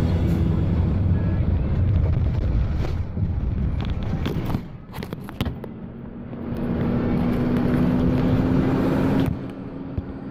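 Pickup truck driving, engine and road noise heard from inside the cab, with a few knocks partway through. An engine tone rises steadily as the truck accelerates, then drops away suddenly near the end.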